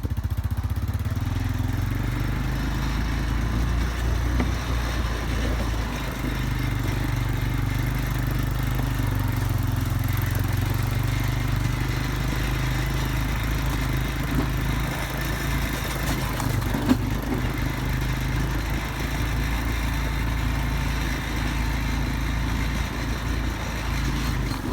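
A vehicle driving slowly along a dirt road: a steady low engine hum with tyre and road noise, and one brief knock about two-thirds of the way through.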